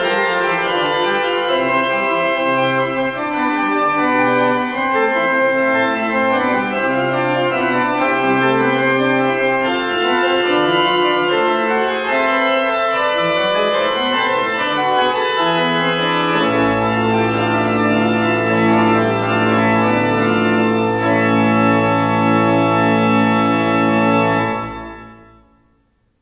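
Organ playing a slow closing piece in sustained chords, ending on a long held final chord with a deep bass note that fades out to silence near the end.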